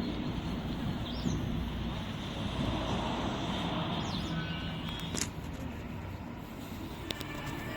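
Shengtuo tractor's four-cylinder diesel engine running steadily, easing off slightly toward the end.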